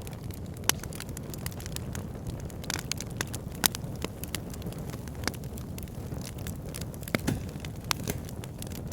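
Wood fire in a backyard fire pit burning with a steady low rumble of flame and frequent sharp crackles and pops, the loudest pops about a second in, near four seconds and a cluster near seven seconds.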